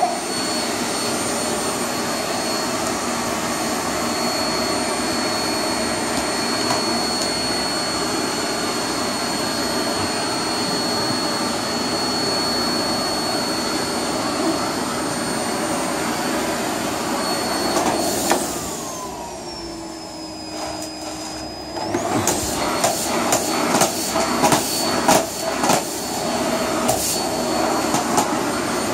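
Vacuum cleaner running with a steady high whine. About 18 s in its motor winds down with a falling pitch. About 22 s in it starts up again, now with a run of clicks and knocks over the motor.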